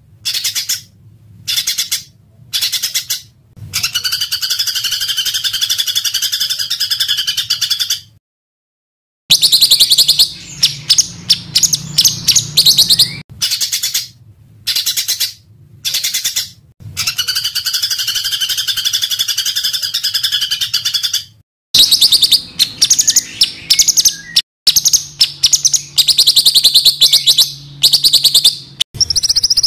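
Small songbirds singing in rapid, harsh bursts of repeated high notes, with two long buzzing trills, cut together with abrupt gaps of dead silence between phrases.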